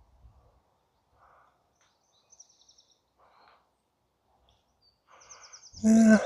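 Small songbirds singing high, rapid trills in woodland, mostly faint, with one short, louder pitched sound near the end.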